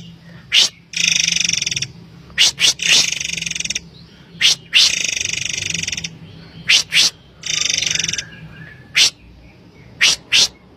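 Murai air bird calls repeating: sharp short high notes alternate with harsh, buzzy rattling calls about a second long, several times over.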